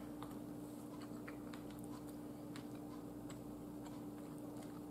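Faint chewing of an air-fried chicken wing: soft scattered mouth clicks over a steady low hum, with a sharper click near the end.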